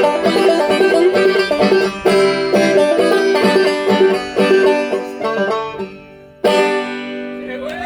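Five-string banjo played clawhammer style, a quick run of picked notes that thins out and fades. About six and a half seconds in, one chord is struck and left ringing.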